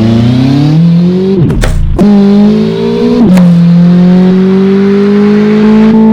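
A vehicle engine accelerating: its pitch climbs, drops abruptly twice like gear changes, then settles into a steady, slowly rising drone.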